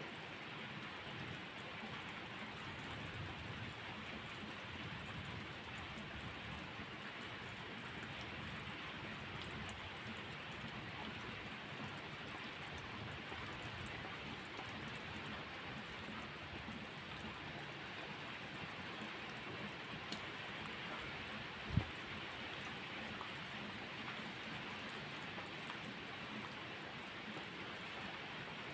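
Steady rainfall, an even rushing hiss of drops, with one short low thump about three quarters of the way through.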